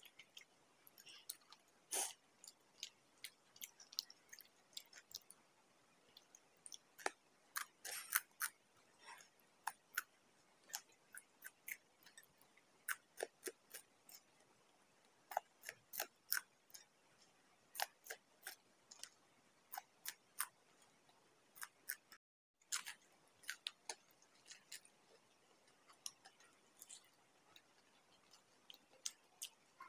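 Close-up chewing and crunching of fried samosas, crisp irregular crackles several times a second, cutting out briefly about two-thirds of the way through.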